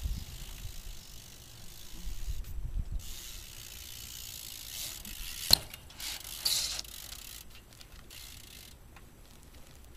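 BMX bike rolling on concrete, its rear hub ticking as it freewheels while the rider coasts. A sharp knock about five and a half seconds in is the loudest sound, with a smaller clatter a second later.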